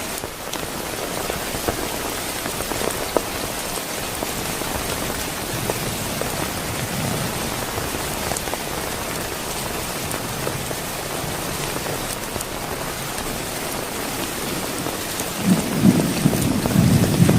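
Heavy rain falling steadily, with scattered drops ticking. A faint low rumble of thunder passes midway, and near the end a loud rumble of thunder builds.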